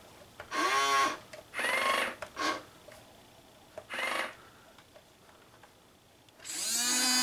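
Hobby Engine 1:12 scale RC excavator's small electric motors whining in short bursts as it is worked by radio, each burst rising in pitch as the motor spins up. There are about five bursts, and the longest, about two seconds, comes near the end.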